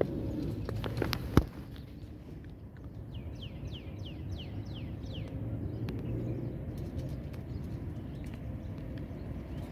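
A bird calls a quick run of about eight high notes, each falling in pitch, about three seconds in. Under it runs a steady low outdoor rumble, with one sharp click about a second and a half in.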